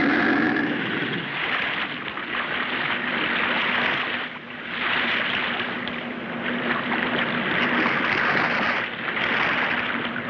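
Rushing sea water and surf, swelling and easing in waves, over a steady low hum.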